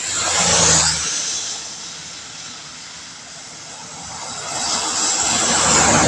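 Vehicles passing on a rain-wet road, their tyres hissing on the wet asphalt with a low engine rumble beneath. One goes by just after the start and fades within about a second. Another builds from about four seconds in and is loudest near the end, over a steady wash of rain.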